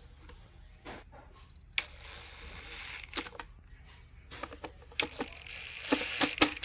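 Handling noises from refitting a dishwasher wash pump and its hose clamp: sharp plastic and metal clicks and knocks, and twice a second-long rasping scrape.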